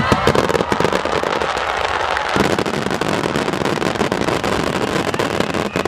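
Large fireworks display: aerial shells and low ground effects going off together, making a dense, steady crackle with many sharp pops over it.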